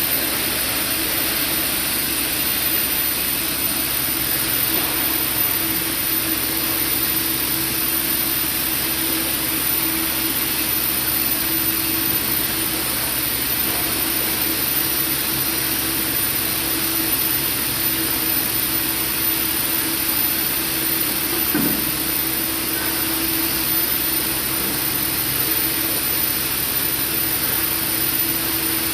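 Steady machinery noise: a constant hiss with a single low hum running under it, unchanging throughout.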